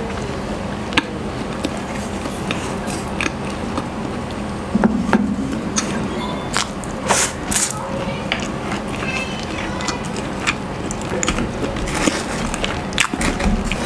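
Close-miked chewing and wet mouth clicks of someone eating instant pancit canton noodles and soft pandesal bread rolls, scattered sharp smacks over soft, steady background music.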